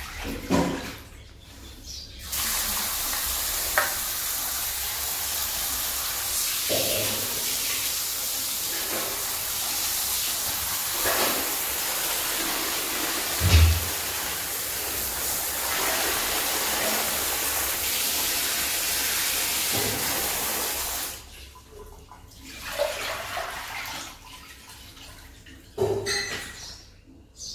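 Steady rush of running water, starting about two seconds in and cutting off abruptly about 21 seconds in, with a few light knocks along the way.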